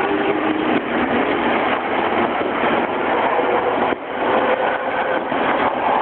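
Odakyu 3000 series electric commuter train departing, its cars rushing past the platform at speed with a loud, steady rumble of wheels on rail, echoing in the enclosed underground station.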